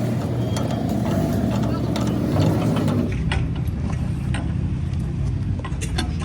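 An engine running steadily at low revs, with scattered sharp metallic clicks and knocks. The engine sound changes about three seconds in.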